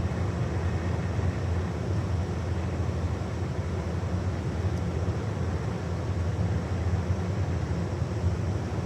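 Oxy-acetylene brazing torch burning steadily, a low rumbling rush of flame with hiss above, as brazing rod is melted over a hole burned in copper pipe.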